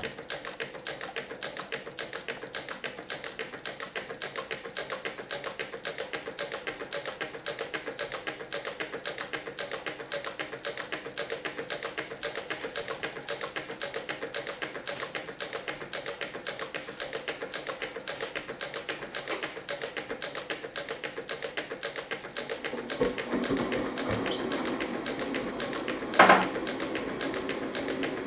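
Meccano-built Stirling engine running, its crank, linkages and output gears making a rapid, even clatter of clicks. Near the end a pitched sound joins it, with one brief loud sound a few seconds later.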